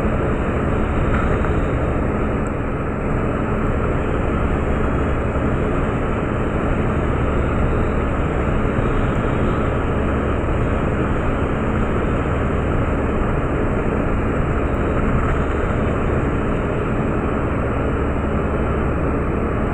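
Meteor hydrofoil running at speed, heard aboard: a steady drone of its twin diesel engines, with a deep hum under a constant rushing noise.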